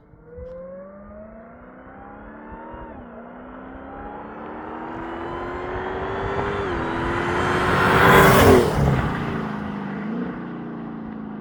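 Supercharged 6.2-litre HEMI V8 of a Dodge Challenger SRT, on its stock intake air filter, accelerating hard through the gears: the engine note rises, drops at an upshift about three seconds in and again near seven seconds, then a loud rushing surge peaks about eight seconds in before the engine settles to a steadier, lower note.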